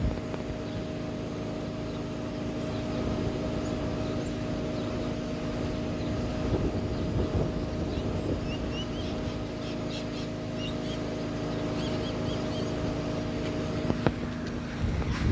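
Bee vacuum running steadily at low suction, a constant motor hum, drawing returning forager bees into the box. A few faint bird chirps come in over the second half.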